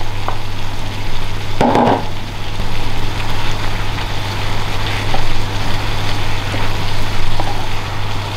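Meat and vegetables sizzling as they are stir-fried in a pan and turned with a wooden spatula, with one brief louder scrape about two seconds in.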